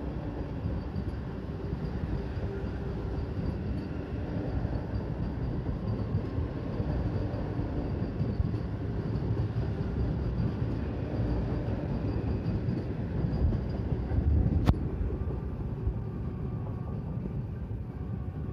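Vande Bharat Express electric trainset running past along the platform: a steady rumble of its wheels on the rails. One sharp click about three-quarters of the way through.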